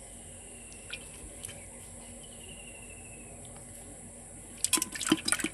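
Water splashing in a short burst of sharp slaps near the end, over a steady high-pitched hiss.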